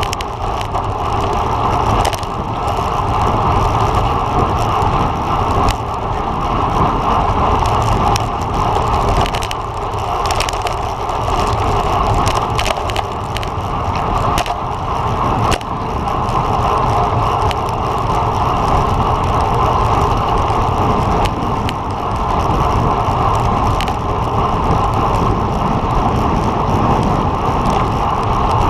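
Road bicycle rolling at speed: steady rush of wind and tyre noise on the road, with scattered light clicks and rattles from the bike.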